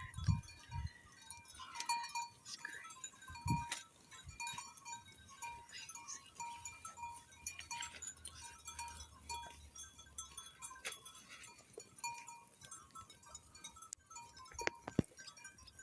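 A flock of sheep close by, with occasional faint bleats among many short, scattered higher sounds.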